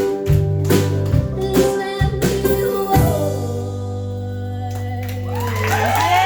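Live band playing the close of a song: strummed, driving beats for about three seconds, then a final chord left to ring. Near the end, held notes slide and bend over it.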